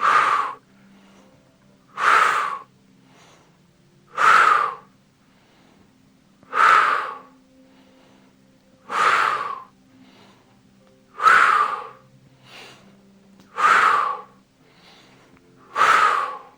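A man's forceful, audible exhales, one with each push against a resistance band, coming regularly about every two and a quarter seconds, eight in all.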